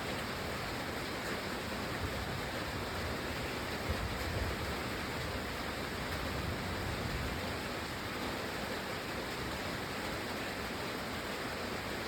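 Steady rain falling, an even hiss with no let-up, with a brief low rumble about four seconds in.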